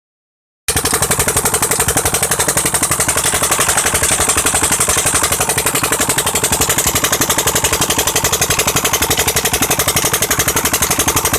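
Petter stationary engine, run on LPG, running steadily with an even, rapid thudding beat of about ten pulses a second. It cuts in abruptly, already running, just under a second in.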